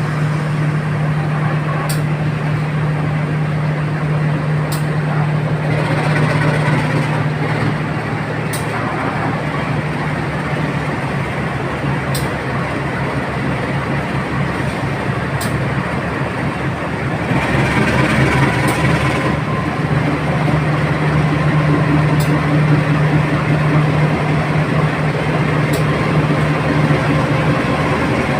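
Diesel locomotive hauling a passenger train away from a station, its engine humming steadily, with a brief louder, noisier rumble about two-thirds of the way through.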